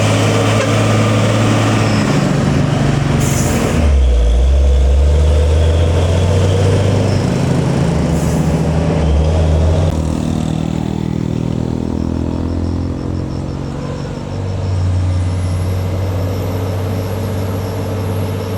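Heavy diesel trucks labouring up a steep climb, the engine note dropping and shifting as they work the grade. Two short hisses of air come about three and eight seconds in.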